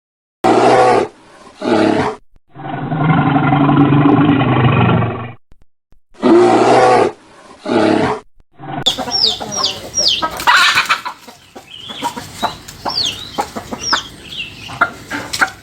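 A string of separate animal calls: a few short loud calls, one long call lasting about three seconds, another short call, then from about nine seconds in, chickens clucking with high, falling peeps.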